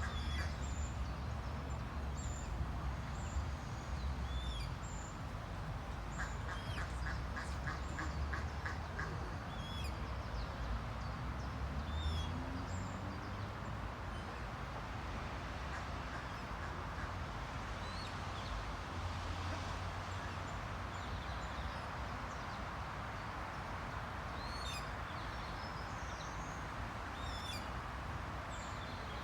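Ducklings peeping in short, high calls scattered throughout, with a quick run of duck calls from about six to nine seconds in, over a steady low rumble.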